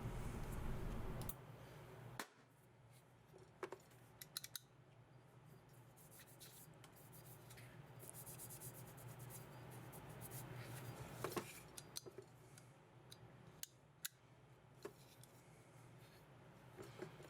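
Faint handling noise with scattered sharp clicks of small parts and tools being handled. A low hum cuts off about a second in.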